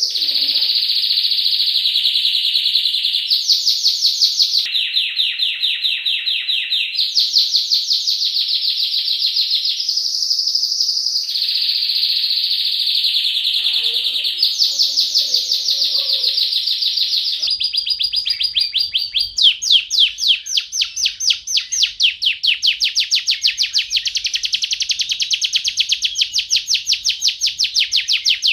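Domestic canary singing a long, unbroken song of rapid high trills, switching abruptly from one rolling phrase to the next every couple of seconds. From a little past halfway it moves into a faster trill of sharp, evenly repeated notes.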